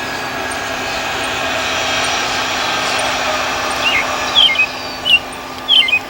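Boeing 757's Pratt & Whitney PW2037 turbofan engines running with a steady jet noise that swells gently and eases off. Several short, sharp chirps come over it in the last two seconds, louder than the engines.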